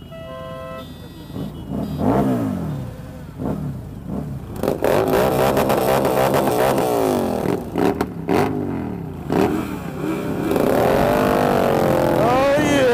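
Several motorcycles revving and pulling away, their engine pitch rising and falling again and again, with a short steady beep at the start.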